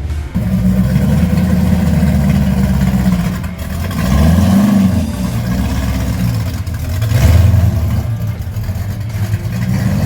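Car engine running at the kerb and being revved: the pitch rises and falls about four seconds in, with another louder swell about seven seconds in.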